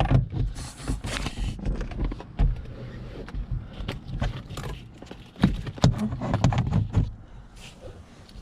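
Handling noise of plastic interior parts being fitted at the top of the windshield: a run of short clicks and knocks with some rubbing, busiest about a second in and again from about five to seven seconds.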